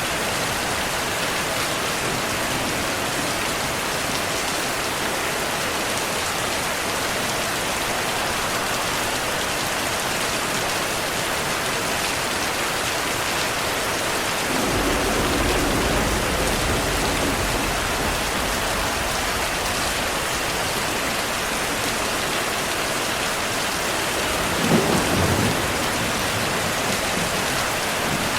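Heavy, steady rainfall with thunder: a low rolling rumble about halfway through, and a sharper, louder thunderclap near the end.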